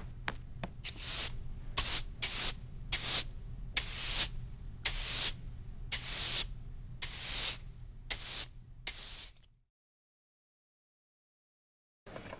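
A run of about a dozen short hissing bursts, a little under a second apart, over a low steady hum. They stop about nine and a half seconds in, and one more burst comes near the end.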